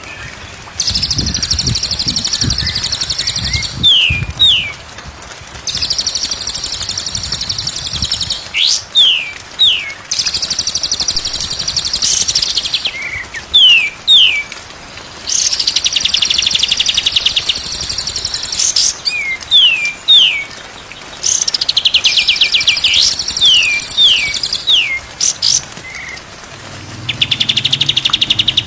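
A songbird singing the same phrase over and over, about every five seconds: a dense, rapid high trill lasting about three seconds, then two or three quick descending whistles.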